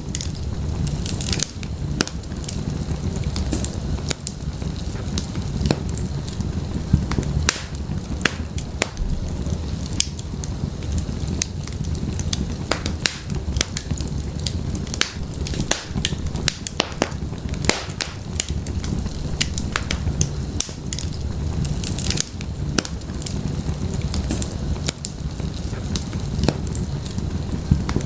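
Wood fire burning in a fireplace: irregular sharp crackles and pops of burning firewood over a steady low rumble of flames.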